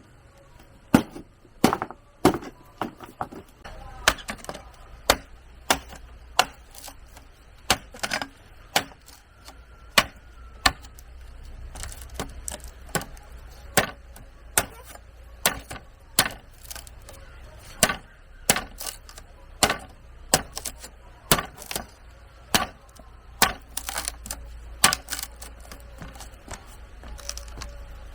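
Sharp tool strikes on bamboo, one or two a second at an irregular pace, like chopping or cutting. A low steady rumble runs underneath from about four seconds in.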